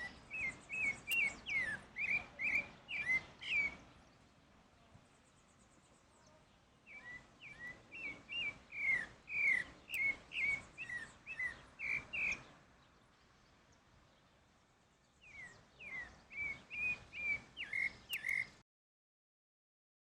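Pale-breasted thrush singing: three phrases of quick, repeated short whistled notes, each a few seconds long, with pauses of a few seconds between them.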